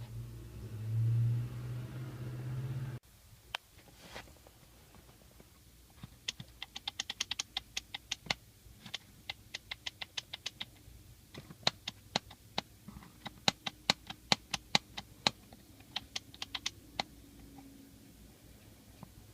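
A low hum that cuts off suddenly about three seconds in, then many sharp clicks in uneven runs of several a second.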